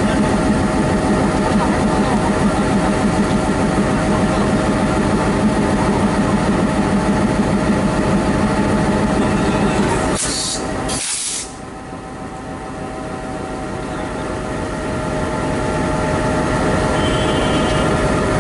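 Locomotive running steadily with a droning hum. About ten seconds in comes a short double hiss of air, after which the sound suddenly drops and slowly builds back up.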